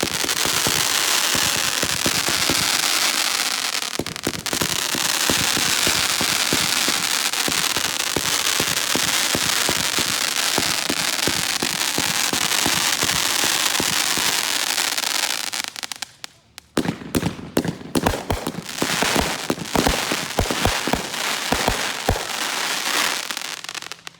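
Consumer fireworks going off: a dense, continuous crackling for about sixteen seconds, then a run of separate sharp bangs that stops abruptly at the end.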